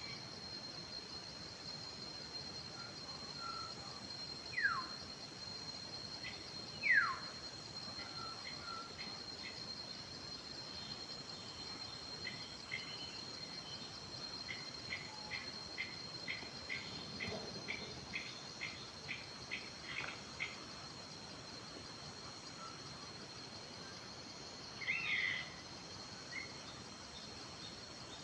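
Wild birds calling over a steady high insect drone: two loud falling whistles early on, then a long run of short repeated notes at about two a second, and a further burst of calls near the end.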